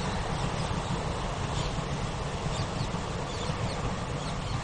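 Distant passenger train running past with a steady low rumble, while birds chirp several times.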